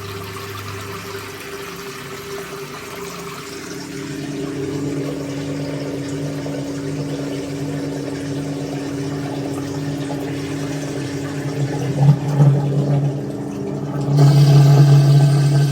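1958 Hotpoint Empress washing machine's electric drain pump running with a steady hum as water pumps out through the drain hose. It grows louder about four seconds in and louder again near the end.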